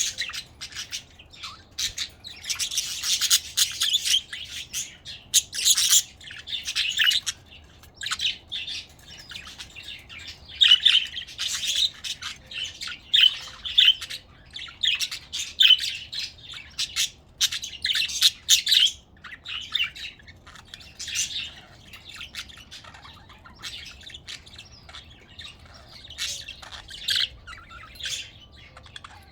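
Budgerigars chattering and warbling: a busy run of short high chirps and squawky calls in clusters, several birds at once.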